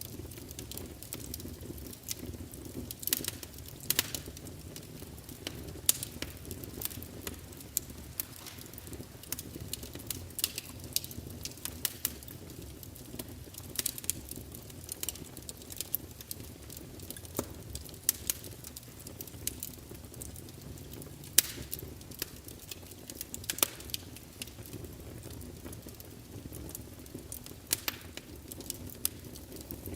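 Fire crackling: irregular sharp pops and snaps, a few of them louder, over a low steady rush.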